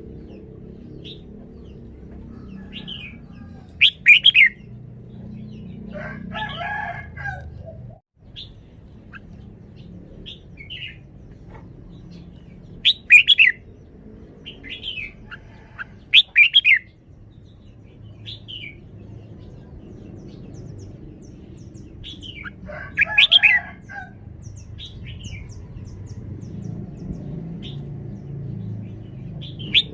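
Caged red-whiskered bulbul singing: short, loud warbled phrases every few seconds, with soft chirps between them.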